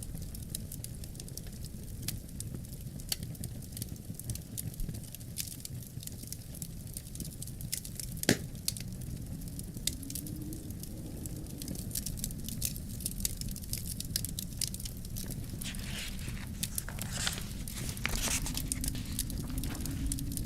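Wood fire crackling and popping in a fireplace, with one loud pop about eight seconds in and a flurry of crackles near the end, over a steady low rumble of wind that moans faintly now and then.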